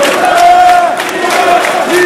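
A large crowd of football supporters singing and chanting together in a stadium, many voices holding a sung line over general crowd noise.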